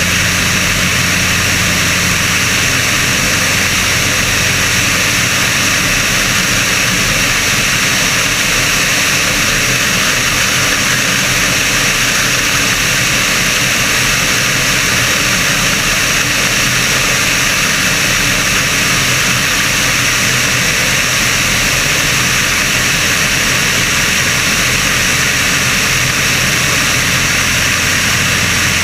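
Sonerai's Volkswagen-derived air-cooled flat-four engine and propeller running steadily at constant power, the engine in its break-in period. The sound is loud and unchanging, with a low hum under a steady rushing noise.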